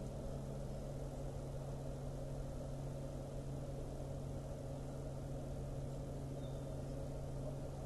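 A steady low engine hum with a constant pitch that does not change.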